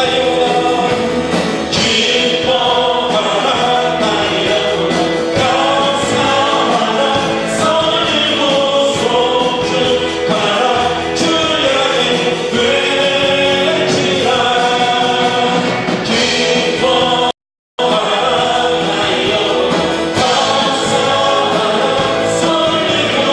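A congregation singing a worship song together with music. The sound drops out completely for a fraction of a second about 17 seconds in.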